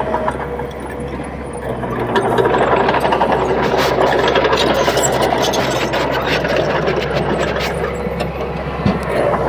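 Crawler bulldozer's diesel engine running under load, growing louder about two seconds in, with scattered clanks and rattles over the steady engine hum.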